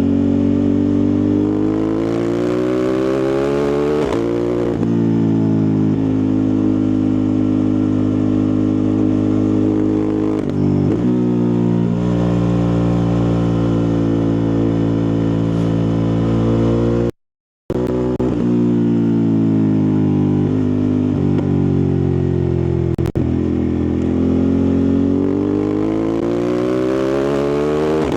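Ducati Multistrada 1260 Pikes Peak's 1262 cc Testastretta DVT V-twin engine and exhaust running under way. The engine note falls over the first few seconds, holds fairly steady, then falls again after a short dropout about seventeen seconds in and climbs near the end as the throttle opens.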